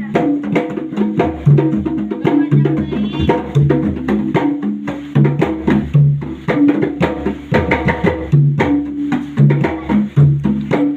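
Drum-led percussion music: pitched drums and sharp wooden-sounding strokes in a fast, busy rhythm.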